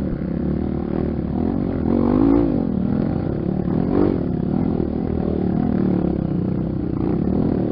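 Motorcycle engine, a Honda XR 250 Tornado single-cylinder four-stroke, running under way, its pitch rising and falling with the throttle.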